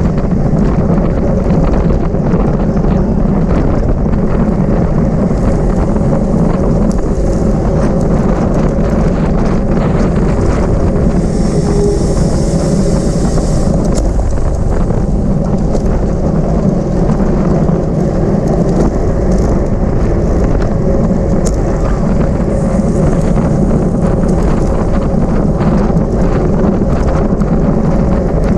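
Wind rushing over the microphone of a camera on a moving bicycle at race speed, a loud, steady rush. A brighter hiss comes in twice, around the middle and again near the end.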